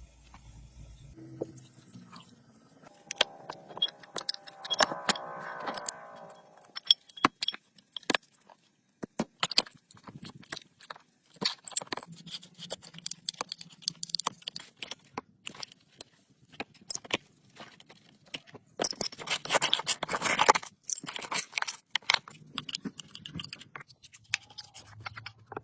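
Irregular clinks, knocks and scrapes of metal tools and parts being handled during hand repair work, with a short louder rasping stretch about three-quarters of the way through.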